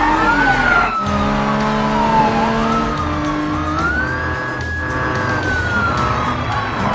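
Cartoon vehicle sound effect: a single whine that glides up and down in pitch and sinks slowly near the end, over background music with a steady low beat.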